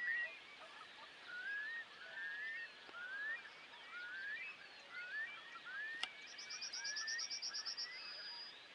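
A distant flock of geese and swans calling from the field, a string of short upward-sliding calls about one a second. A high, fast trill comes in about six seconds in.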